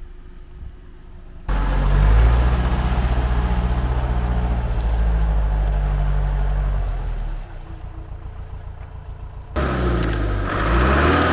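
4x4 vehicle engine running, cutting in suddenly about a second and a half in and easing off after about seven seconds. It comes back loud near the end, its pitch rising as it revs.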